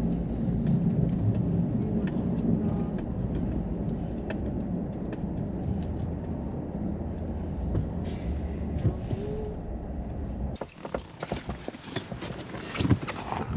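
Truck running at low speed, a steady low rumble of engine and tyres, which cuts off abruptly about ten seconds in and gives way to scattered clicks and knocks.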